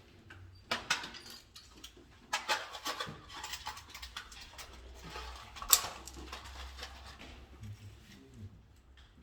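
Irregular clicks, scrapes and rustling of hands working with small tools and hard parts, with one sharper click a little before the middle.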